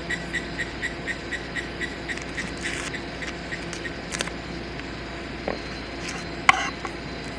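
Insects chirping steadily at about three chirps a second, fading after a few seconds, with a couple of sharp clicks of handling.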